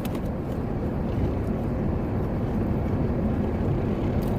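Steady low rumble heard inside a truck's cabin: the engine idling with the heater running.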